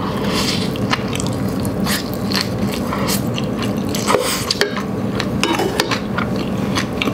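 Close-miked chewing of a mouthful of peanut satay udon noodles, with many small mouth clicks. A wooden spoon and chopsticks knock against the stainless steel pan, sharpest about four seconds in.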